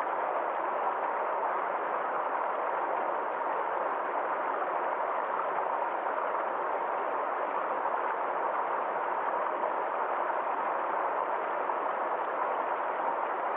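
Small forest stream flowing and trickling over rocks: a steady, even rush of water with no breaks.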